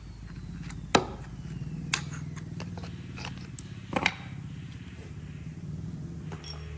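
An engine running steadily with a low drone, with a few sharp knocks about one, two and four seconds in.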